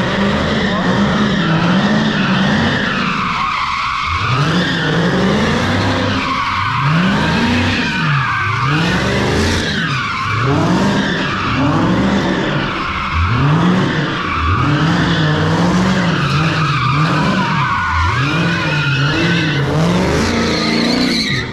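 A car doing donuts: its engine revs up and down over and over, about once every second or two, under continuous tire squeal.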